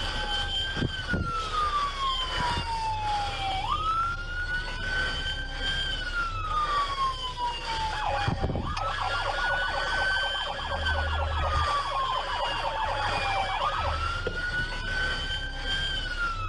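Police car siren wailing, each cycle rising quickly and then falling slowly, repeating about every five seconds. A rapid pulsing tone is layered over it for several seconds in the middle.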